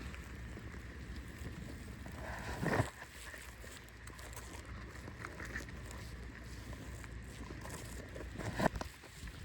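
Steady low rumble of wind on the microphone, broken by two brief louder noises, about three seconds in and again near the end.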